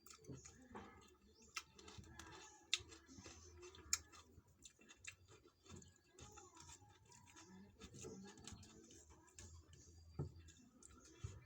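Quiet eating sounds: scattered soft clicks and light knocks of chewing and food being handled on a plate, a few sharper clicks in the first four seconds.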